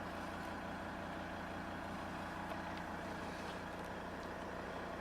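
Volvo XC90 2.4 D5 five-cylinder turbodiesel engine idling steadily.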